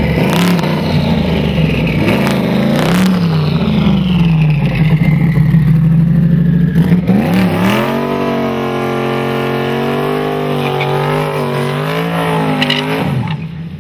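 Late-model Ford Mustang V8 revving, rising and falling in blips for the first few seconds. From about halfway through it is held at high revs during a smoky burnout, then drops off just before the end.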